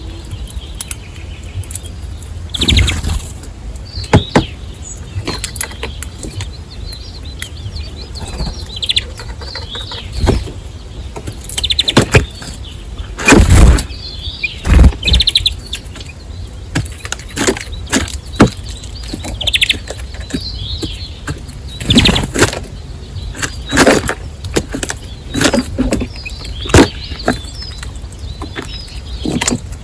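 Birds fluttering their wings again and again as they come and go, each flutter a brief loud whirr at irregular intervals, with short chirps in between.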